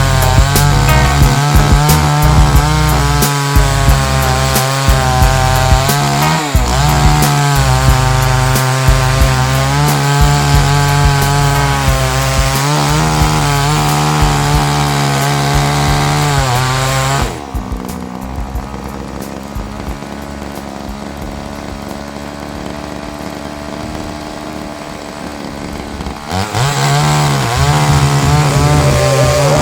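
Chainsaw on an Alaskan sawmill running at full throttle while ripping through a pine log, its pitch wavering under the cutting load. About two-thirds of the way through it drops to a much quieter sound for several seconds, then revs back up near the end.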